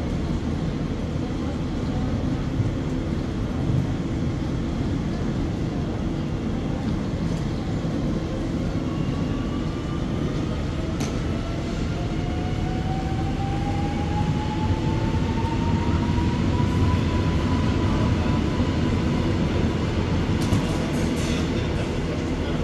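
Electric train running through a railway station with a steady low rumble. A motor whine rises in pitch over several seconds midway and then holds steady, as the train picks up speed. A few light clicks come near the end.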